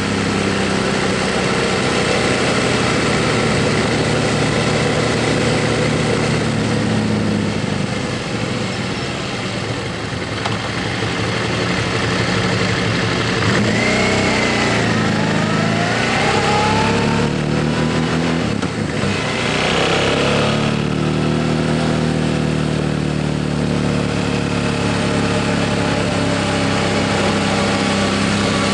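Motorcycle engine running under way, its note shifting up and down in steps as the rider changes speed and gear, over steady wind and road noise. About halfway through, a brief gliding whine rises and falls over it.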